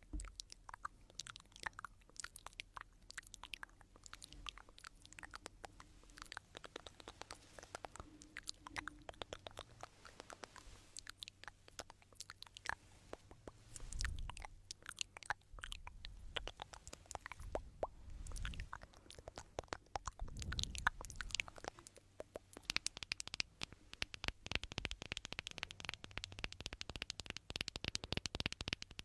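Stones rubbed and clicked together close to the microphone, an ASMR trigger: a steady run of sharp clicks and gritty crackles with a few dull knocks, turning into dense, fast crackling near the end.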